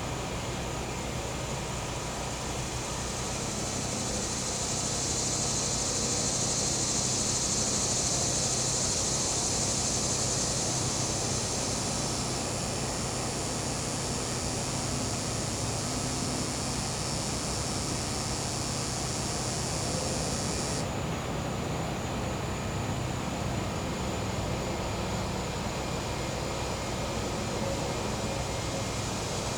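Gas-powered generator humming steadily, with a cicada buzz swelling up a few seconds in and cutting off abruptly about two-thirds of the way through; a high, thinner insect chorus carries on over the hum.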